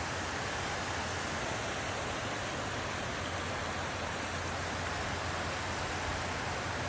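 Steady rain falling: an even hiss with a low hum underneath.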